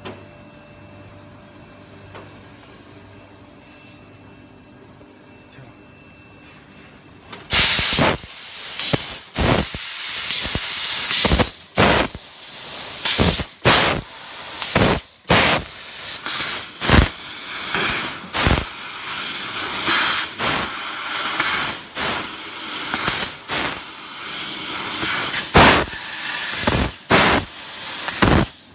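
Fiber laser cutting machine cutting sheet metal: the assist gas hisses loudly through the cutting head, starting about seven and a half seconds in after a faint steady hum, and cuts out briefly again and again as the head moves between cuts.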